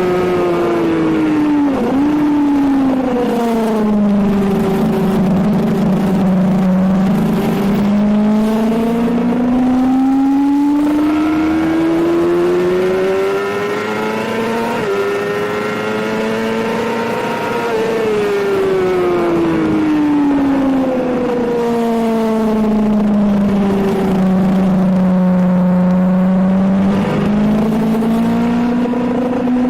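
Suzuki GSX-R750 inline-four engine heard onboard at track speed, with wind noise. Its pitch drops sharply twice near the start, climbs for several seconds through a small step, then falls for several seconds, dips sharply once more near the end and climbs again.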